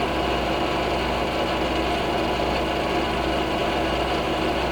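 Milling machine running steadily, its face mill taking a light finishing cut across an aluminium part, with a steady hum and fine even ticking.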